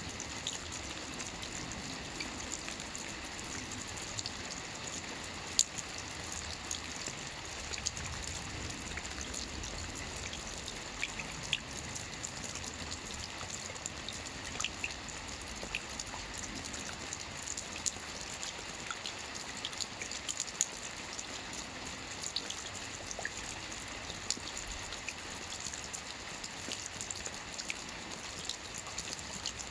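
Steady soft rain on a roof: an even hiss of falling rain, scattered with sharp ticks of single drops striking the roof.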